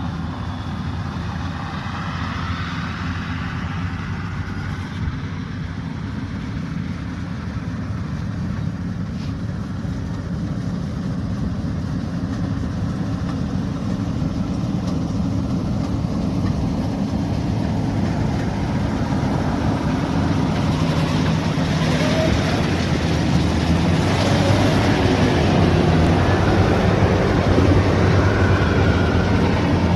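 Diesel engine of a rice combine harvester running steadily with a low hum, getting louder over the second half as more hiss joins in.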